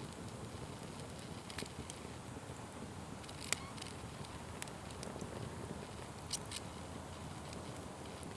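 Wood fire burning with a steady low hiss and scattered sharp crackles and pops, the loudest a little before halfway and a quick pair near the end.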